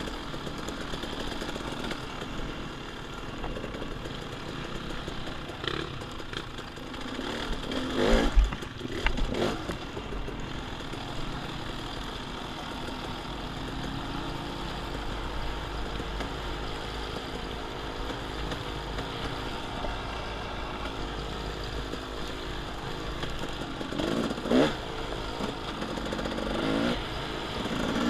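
Off-road dirt bike engine running as it is ridden along a woods trail, its pitch rising and falling with the throttle, over a steady low rumble. A few sharp knocks and clatters come about eight seconds in and again near the end.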